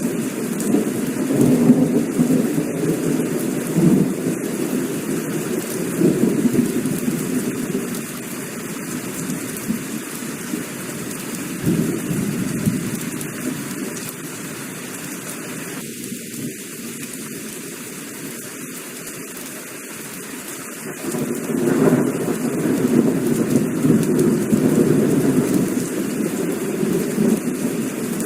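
Heavy rain falling steadily with rolling thunder. The low rumble eases off about a third of the way in and swells back up about three quarters of the way through.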